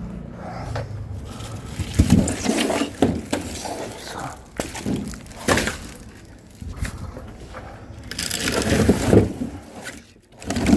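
Oak firewood logs knocking and thudding against each other as they are handled, in irregular clattering bursts with a denser clatter near the end.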